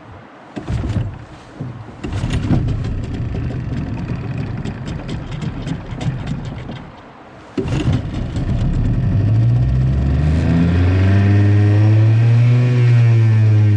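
Small boat outboard motor being started: several seconds of knocking and rattling, then it catches and runs, its pitch rising and easing back as it is revved.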